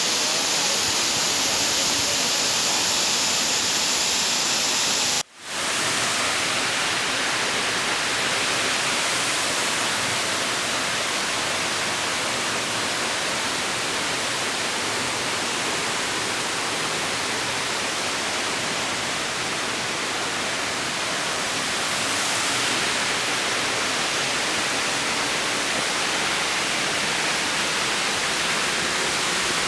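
Steady rush of falling water from a waterfall. About five seconds in there is an abrupt cut, and after it the rush is fuller and reaches lower in pitch.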